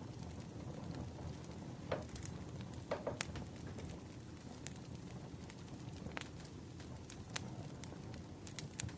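Wood fire crackling: scattered sharp pops and snaps, a few louder ones about two and three seconds in, over a steady low rumble.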